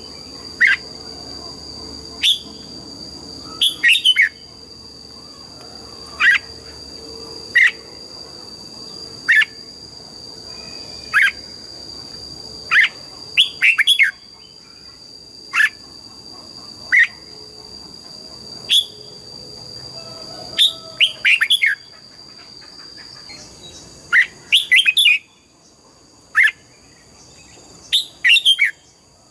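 Red-whiskered bulbul giving short, sharp chirped notes that drop in pitch, one at a time or in quick runs of two to four, every second or two. A steady high tone runs underneath for most of the time and stops near the end.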